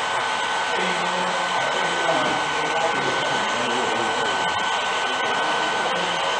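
HO scale model train running on a layout, a steady whir of motor and wheel noise with a thin constant whine, and faint voices murmuring underneath.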